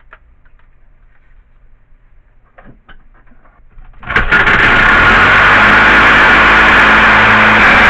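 A few light handling clicks, then about four seconds in a reciprocating saw (Sawzall) starts suddenly and runs loud and steady, cutting aluminium.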